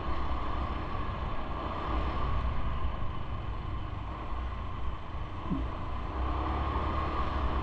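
Wind rushing over the microphone of a camera riding along on a bike, with a steady low rumble of travel along the road.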